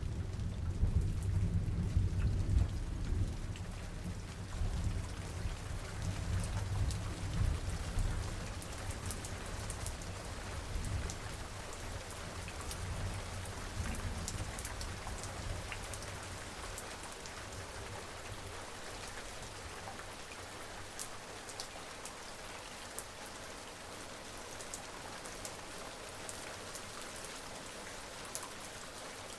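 Steady rain falling, with fine drop ticks, during a summer thunderstorm. A low thunder rumble rolls on through the first ten seconds or so and fades away, leaving the rain alone.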